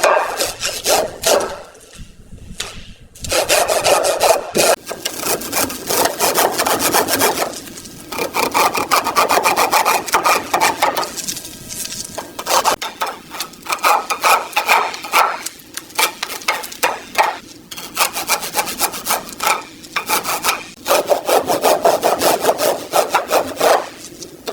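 Rapid back-and-forth abrasive strokes scraping or sanding rusted car-body metal by hand, in several runs separated by short pauses.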